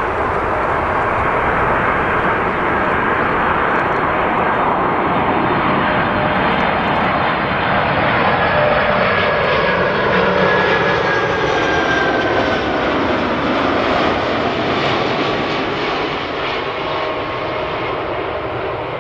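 Jet airliner passing close by as it comes in to land, its engines a loud, steady rushing noise with a whine that slides down in pitch as it goes past, loudest around the middle.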